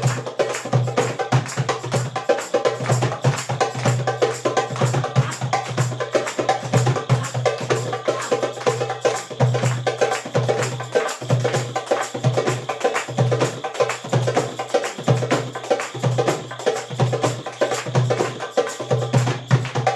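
Music: bongo drums played in a fast, steady rhythm over a song's backing track.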